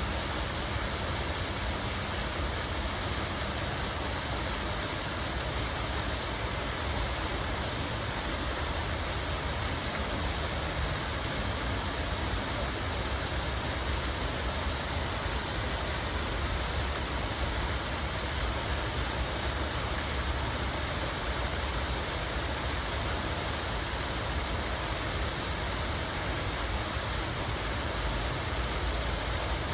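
Steady rush of flowing water, even and unbroken, with a low rumble underneath.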